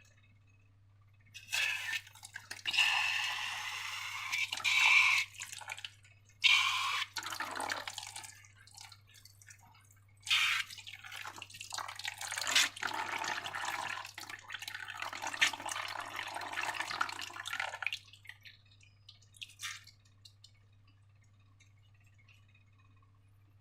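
Wet slime squelching and dripping as it is squeezed and poured, in several bursts. The longest lasts about seven seconds.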